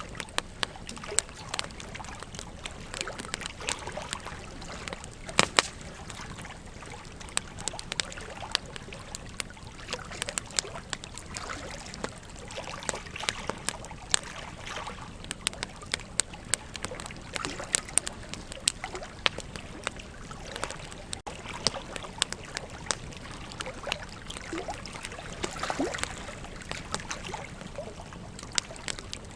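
Wood fire crackling, with irregular sharp pops, a few much louder than the rest, over the steady flowing trickle of a river.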